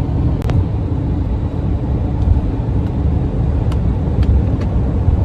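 Steady road and engine noise inside a van driving at highway speed, a low rumble with a faint steady hum. A sharp click about half a second in and a few faint ticks later.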